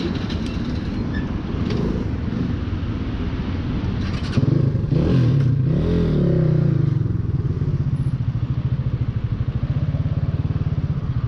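Hanwey 250cc motorcycle's single-cylinder air-cooled four-stroke engine running; its revs change about four seconds in, then it settles into a steady pulsing beat.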